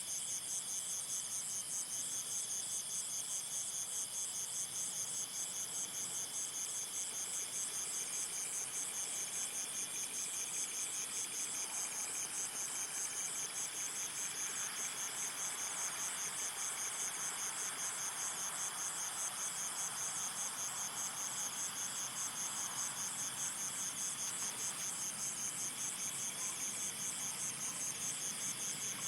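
Insects trilling steadily, a high, rapidly pulsing chorus that doesn't let up. A soft hiss swells and fades beneath it in the middle.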